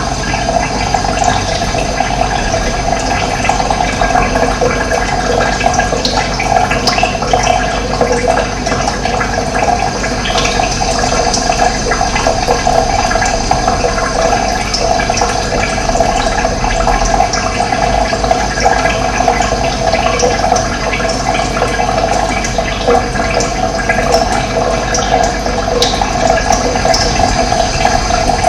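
Running water flowing and splashing steadily, a continuous gushing stream of water.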